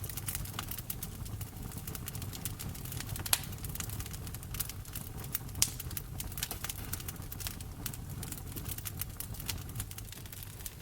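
Wood fire crackling steadily over a low rumble of flame, with two sharper pops, one about a third of the way in and one just past halfway.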